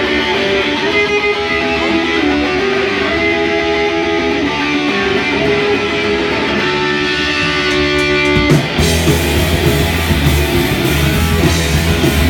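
Rock band playing live: an electric guitar plays alone at first, then about eight and a half seconds in the full band crashes in with drums and bass.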